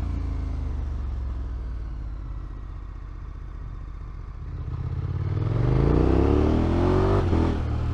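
KTM motorcycle engine heard from the bike as it is ridden: the revs fall away for a few seconds as it slows, then climb hard as it accelerates, with a brief break near the end as at a gear change.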